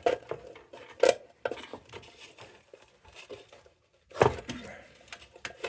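Metal clinks and knocks from handling the stuck burner of an Embury Air Pilot kerosene lantern: two sharper knocks, about a second in and about four seconds in, with lighter taps between.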